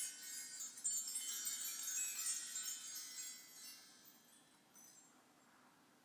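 Cluster of high metal chimes tinkling and shimmering, with a fresh run of strikes about a second in. The ringing then dies away over the last couple of seconds.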